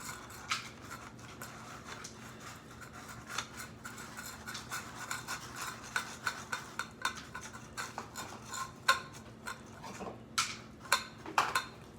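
Cat food bowls and a spoon clinking and scraping as they are handled: a run of small clicks and knocks, with sharper, louder clinks near the end.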